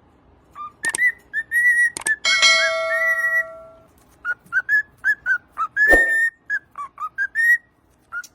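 Cockatiel whistling a tune in a run of short, mostly rising notes. A few sharp clicks come in between, and a held cluster of steady tones sounds briefly about two and a half seconds in.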